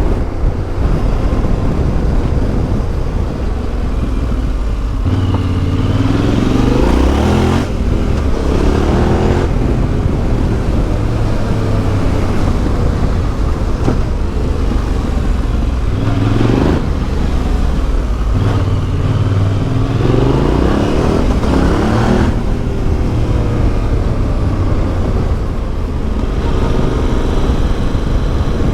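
Yamaha Ténéré 700's 689 cc CP2 parallel-twin engine through an Akrapovic exhaust, ridden on a gravel track, its revs rising and falling several times as the rider accelerates and backs off.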